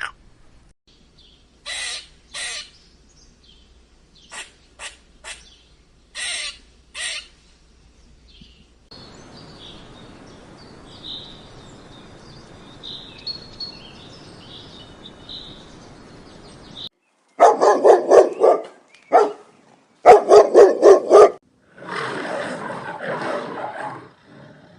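A series of animal calls: a few short squeaks, then high chirps over a steady hiss, then two runs of loud, rapid calls followed by a rougher, noisier call near the end.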